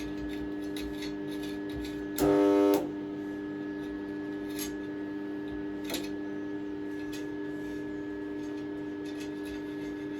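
Steady electrical hum from an AC stick welder, with a brief loud buzz about two seconds in and a few faint clicks.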